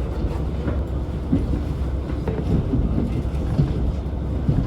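KiHa 40 diesel railcar of the Donan Isaribi Railway running along the line, heard from inside the car: a steady low engine and running rumble with irregular knocks from the wheels over the track.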